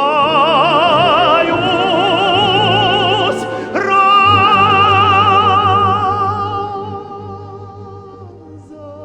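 Male tenor singing a Russian folk song, holding long notes with wide vibrato over a low sustained accompaniment. A new note starts about four seconds in and dies away toward the end.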